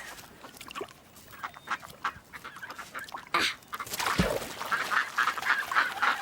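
Ducks quacking, sparse at first and then a busy, rapid run of many quacks over the second half. A single low thud comes just past the middle.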